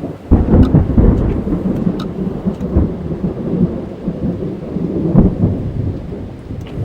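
A thunderclap breaks suddenly about a third of a second in and rolls on as a long, deep rumble, heard from inside a car with rain drumming on the body.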